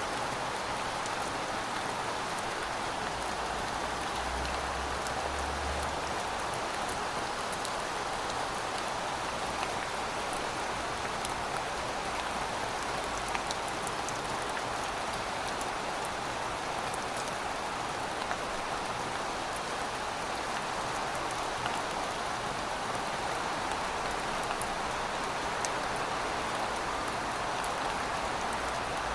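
Heavy rain falling steadily: a dense, even hiss of rainfall with scattered sharp drop ticks on surfaces.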